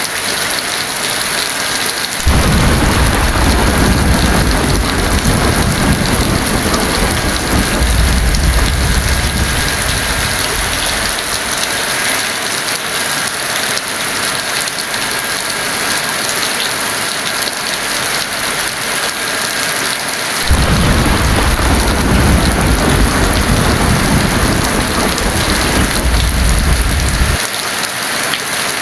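Heavy rain falling steadily, with two long rolls of thunder: the first starts a couple of seconds in and rumbles for about nine seconds, the second starts about two-thirds of the way through and lasts about seven seconds before stopping abruptly.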